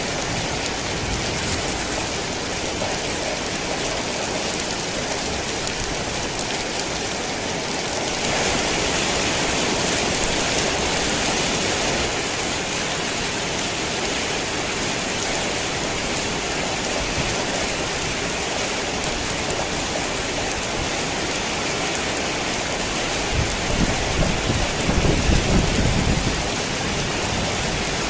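Heavy rain falling steadily, briefly heavier about a third of the way in. A low rumble of thunder builds near the end.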